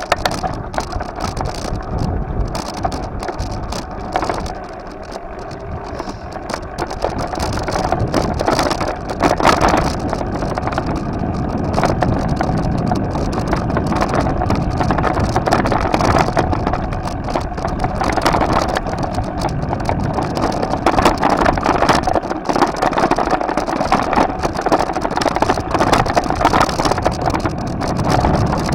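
Steady wind and road noise from a moving bike, a continuous rushing without distinct events, growing a little louder after about six seconds.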